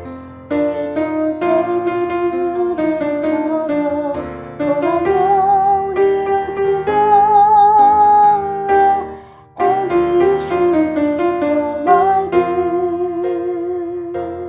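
Woman's mezzo-soprano voice singing a slow hymn line with vibrato over piano accompaniment. There is a brief break about nine and a half seconds in, then singing and piano resume.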